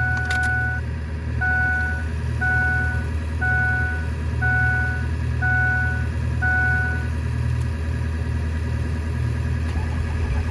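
An electronic two-tone warning chime in the 2005 Ford F-250's cab: one long tone, then six short beeps about once a second, over a steady low hum.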